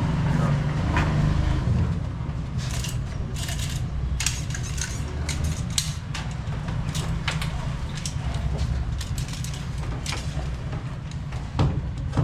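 Hand pop-rivet gun setting rivets through Hardiflex fibre-cement ceiling boards into the metal frame: a string of irregular sharp clicks and short snapping strokes over a steady low rumble.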